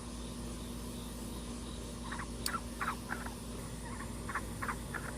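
Baby black-billed cuckoo calling: a run of about eight short, quick notes starting about two seconds in, over a steady low room hum. There is one sharp click midway.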